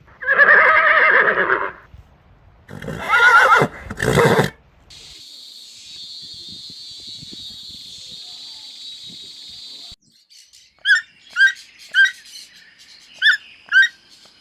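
A run of separate animal calls: a loud drawn-out call at the start, two more calls with a wavering pitch about three and four seconds in, then a steady high hiss for about five seconds, and near the end about six short, sharp chirps.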